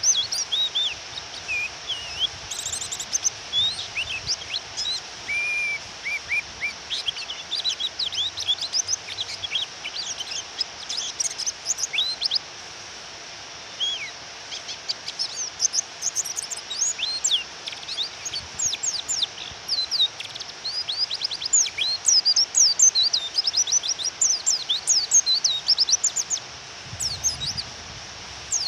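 Female white-eyes (pleci) giving rapid, high-pitched chirps and twittering calls in dense runs, with a brief lull about halfway, over a steady hiss of rain. The calls are the female's provoking call, used to stir male white-eyes into singing.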